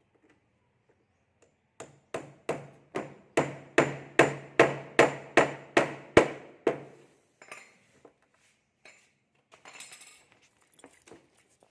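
Hammer blows: a steady run of about a dozen strikes at roughly two and a half a second, each with a short ring, getting louder toward the middle, followed by a few lighter scattered knocks near the end.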